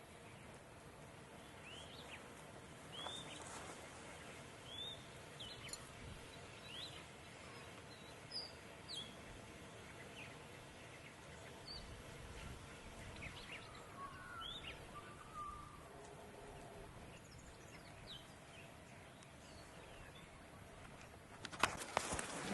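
Small birds chirping faintly over quiet outdoor background noise, in short rising chirps scattered every second or so. In the last second, a sudden loud clatter of knocks cuts in.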